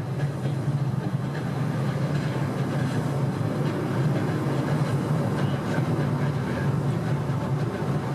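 Steady low drone of a moving vehicle.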